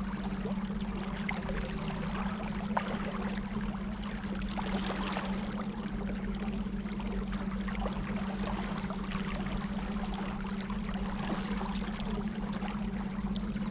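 Electric trolling motors running with a steady hum, over the sound of moving water.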